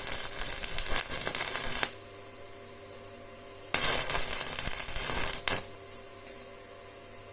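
Two bouts of metallic clinking and rattling, each about two seconds long, with a faint steady hum underneath.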